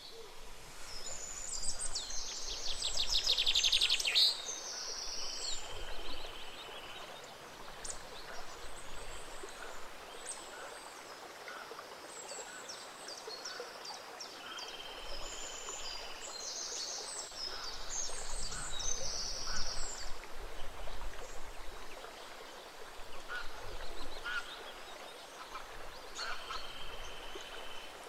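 A gentle stream flowing steadily, with several songbirds chirping and trilling over it. The calls come in bouts, loudest about two to four seconds in and again past the middle.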